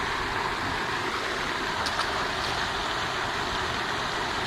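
Steady rushing spray of a pond's aeration fountain, with a couple of faint ticks about two seconds in.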